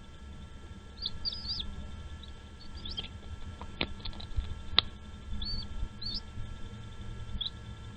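Birds chirping: short, high squeaky chirps in small clusters every second or so, with two sharp clicks in the middle.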